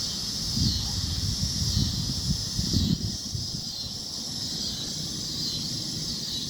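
A chorus of cicadas buzzing: a steady, high, shimmering drone that swells and eases in a regular wavering pulse.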